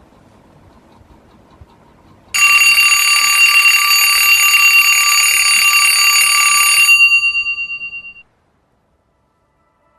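A loud bell-like ringing with several steady high tones starts abruptly about two seconds in, holds for about four and a half seconds, then wavers and fades out.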